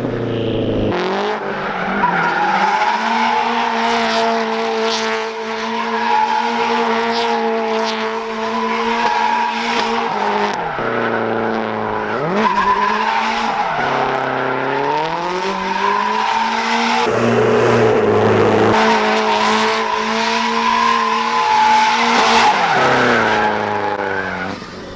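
Straight-piped Subaru WRX STI turbocharged flat-four held at high revs through donuts, tyres squealing. The revs dip and climb again twice in the middle and drop away near the end.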